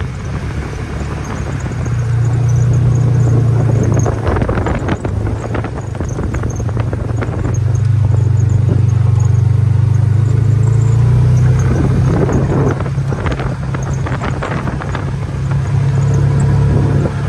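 A vehicle's engine running as it drives along, a low steady drone that swells and eases in loudness, strongest a couple of seconds in and again in the middle.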